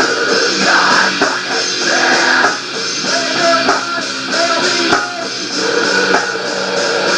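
Rock band demo recording: guitar strumming with drums, playing steadily. The sound is thin, with no deep bass.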